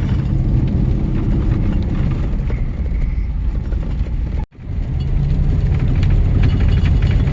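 Pickup truck driving, heard from inside the cab: a steady low rumble of engine and road noise, which drops out abruptly for a split second about four and a half seconds in.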